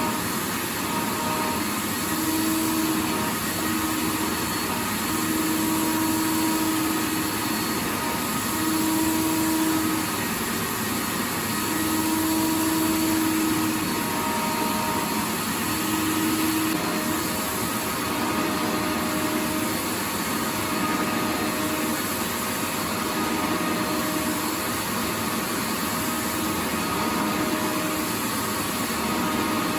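Vacuum cleaner running continuously, a steady rushing noise with a motor hum that fades in and out every couple of seconds.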